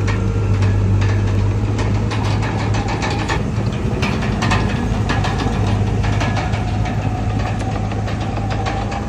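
Komatsu D31PX bulldozer's diesel engine running steadily, with frequent short metallic clanks and knocks.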